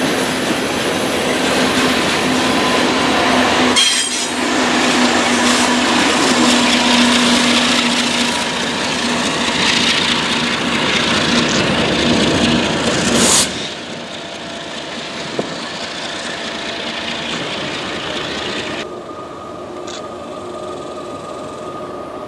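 Freight train cars rolling past, steel wheels on the rails making a loud steady rush with a faint ringing tone through it. About thirteen seconds in the sound drops abruptly to a quieter, steady rumble.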